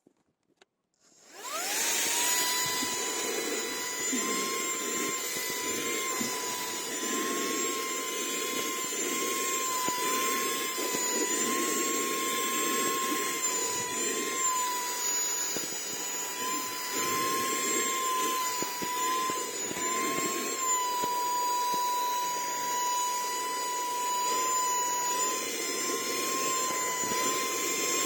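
SERVOMASTER cordless handheld vacuum switched on about a second in, its motor spinning up to a steady high whine over a rush of air, the pitch wavering slightly as it runs.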